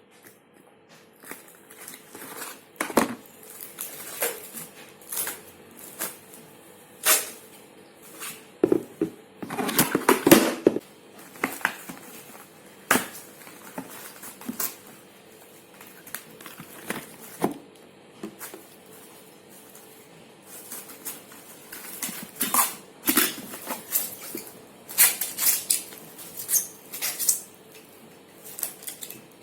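Kitchen food-preparation handling sounds: irregular clicks, light knocks and rustling, with a faint steady hum underneath.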